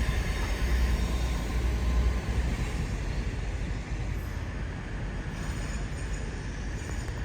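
A train moving at a railway station: a steady low rumble with a hiss of noise above it, easing off a little about two and a half seconds in.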